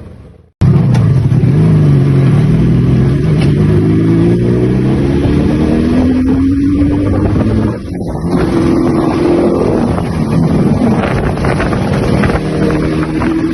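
Yamaha RD350's two-stroke parallel-twin engine revving, its pitch rising and falling repeatedly; the sound starts abruptly about half a second in.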